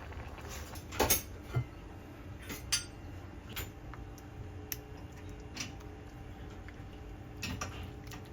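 Cutlery clinking against bowls and plates during a family meal, a few scattered short clicks, the loudest about a second in.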